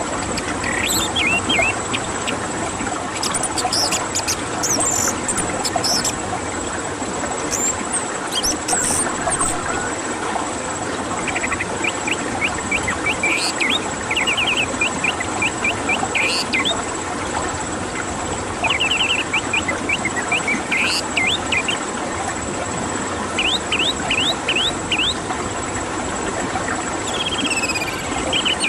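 Orange-headed thrush song: short runs of quick, rapidly repeated chirping notes every second or two, over a steady hiss with a thin high whine.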